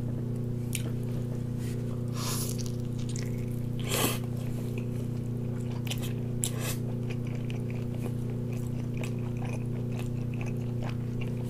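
Someone biting into and chewing a large roasted, glazed chicken leg with crisp skin, with a few louder bites about two and four seconds in. A steady low hum runs underneath.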